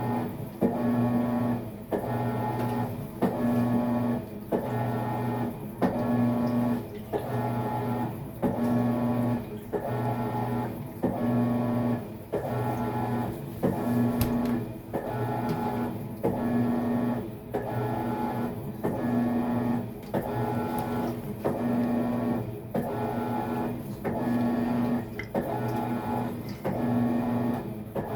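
Maytag MVWX655DW1 top-load washer agitating during a tub clean cycle: the drive motor hums in regular back-and-forth strokes, about one every one and a half seconds.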